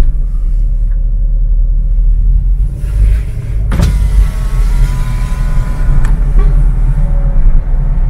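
Strong wind buffeting the microphone, a heavy low rumble throughout. About four seconds in, a sudden sharp noise is followed by about two seconds of a steady high whine.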